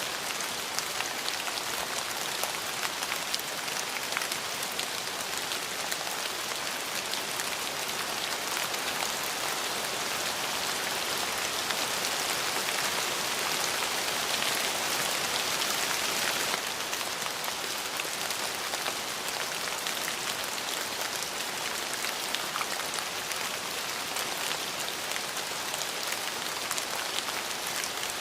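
Steady rain falling on a surface, a dense hiss of many fine drops, swelling a little louder about midway before settling back.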